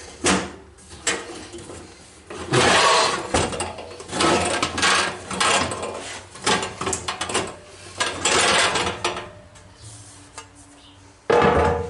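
Plastic housing of an electric fan heater being pulled apart and handled: irregular scraping, rubbing and clicking of plastic parts.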